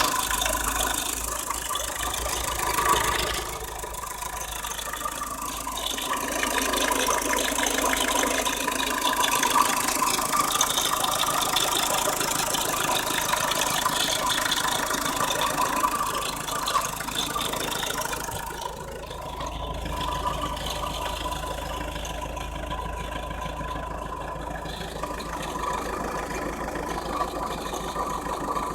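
Renault Grand Scenic 2's 1.9 dCi F9Q diesel engine running with a rhythmic rattle from around the timing belt and valve cover: the sound of a failing coolant pump.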